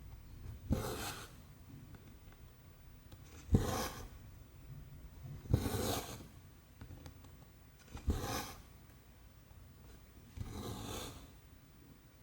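Cross-stitch needle pushed through 14-count canvas with a sharp tap, then cotton thread drawn through with a short rasp. This happens five times, about every two to two and a half seconds.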